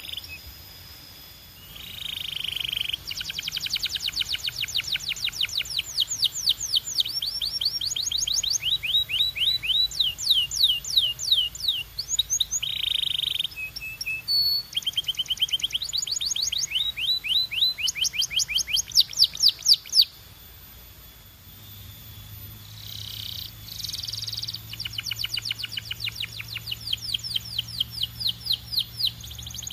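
A canary singing: fast trills of rapidly repeated downward-sweeping notes, strung into rolls with short breaks between them and a longer pause of about two seconds a little after the two-thirds mark.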